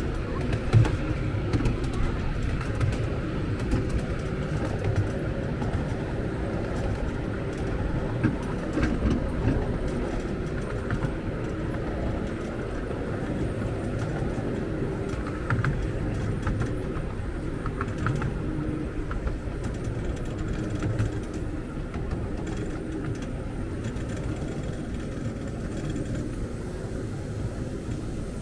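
Miniature railway train running along the track, a steady rumble with a few faint ticks.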